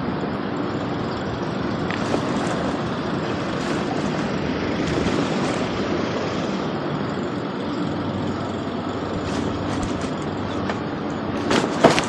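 Steady mechanical rumble with a faint low hum, typical of vehicle noise; a short, loud clatter breaks through near the end.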